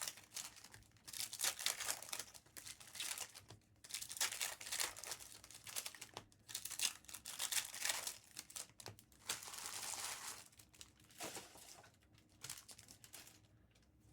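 Plastic wrap and foil wrappers of trading-card blaster boxes and packs being crinkled and torn open: a busy run of rustles and short rips that thins out near the end.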